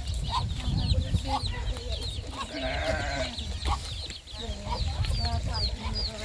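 Chickens: many short, high, falling peeps repeating throughout, with a lower cluck about three seconds in, over a low rumble.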